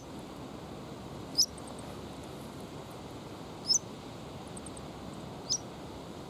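Three short, high squeaky chirps from a small bird, about two seconds apart, over a steady low rush of strong wind.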